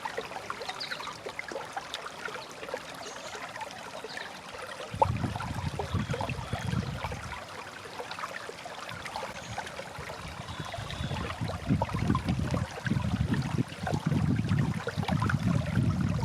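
Small stream trickling and babbling steadily. From about five seconds in, a low rumble joins it, coming and going in uneven pulses.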